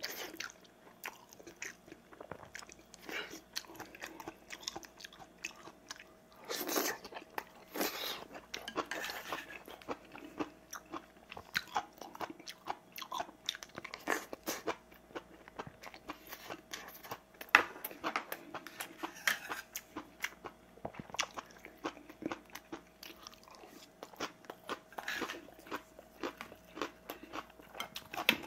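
A man chewing and crunching mouthfuls of rice and Korean side dishes close to the microphone: dense, irregular crunches, smacks and small clicks, with one sharp click about seventeen seconds in.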